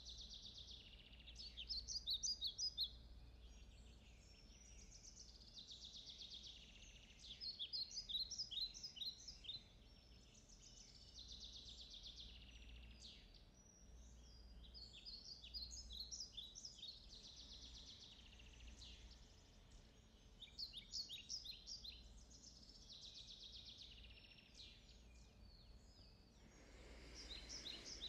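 Faint birds chirping: bursts of quick, high chirps and trills every few seconds, over a low steady hum.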